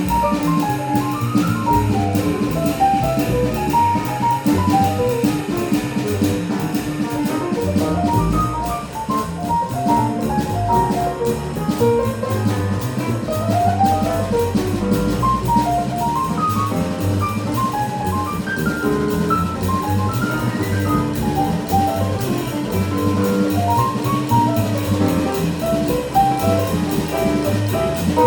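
Live instrumental jazz from a small band: a fast line of notes over bass and drum kit, with steady cymbal time throughout.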